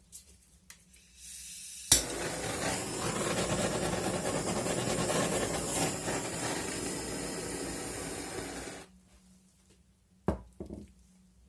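A steady rushing noise, like blowing air, lasting about seven seconds. It starts with a sharp click about two seconds in and cuts off suddenly. A single knock follows shortly after.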